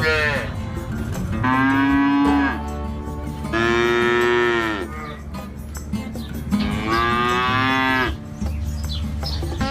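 Cow mooing: three long moos, each rising and then falling in pitch, with the end of another moo just as it begins.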